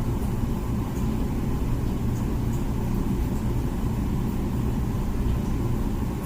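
Comfee dishwasher running its wash cycle: a steady low rumble with a few faint high ticks.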